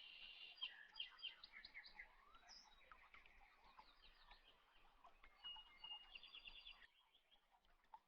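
Faint birds chirping: many short, overlapping chirps and quick trills.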